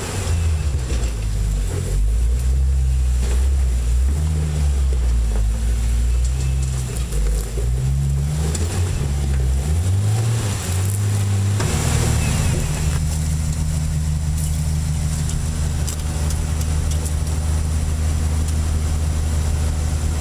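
Jeep-style rock crawler's engine revving up and down in repeated rises and falls as it works over rock ledges, then settling to a steady speed for the last several seconds.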